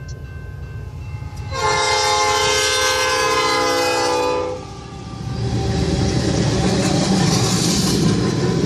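Freight locomotive air horn sounding one long, steady chord for about three seconds, then the rumble of the freight train rolling past.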